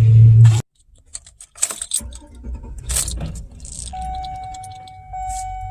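A vehicle engine running that stops abruptly just after the start, followed by keys jangling and clicking. About four seconds in, a steady electronic chime tone begins.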